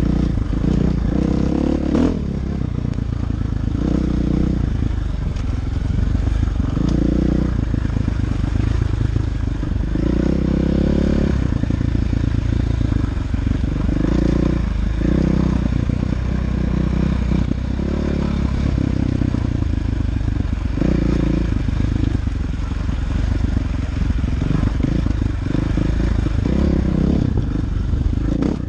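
Dirt bike engine running under load while being ridden, its pitch rising and falling over and over with the throttle and gear changes. A sharp knock comes about two seconds in.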